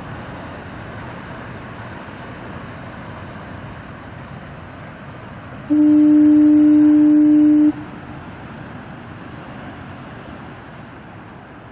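Heavy ocean surf making a steady wash. About six seconds in, one loud, low, steady horn blast lasts about two seconds and cuts off sharply.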